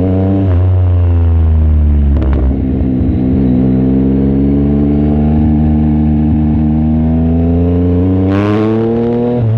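Yamaha MT-09 SP's three-cylinder engine through its aftermarket exhaust with the baffle removed, heard on the move. The engine note falls for the first few seconds and holds, then climbs under throttle with a raspy burst and drops sharply near the end.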